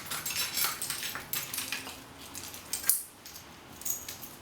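Small hard objects clinking and rattling as they are shuffled about, a string of light clicks with a sharper click about three seconds in.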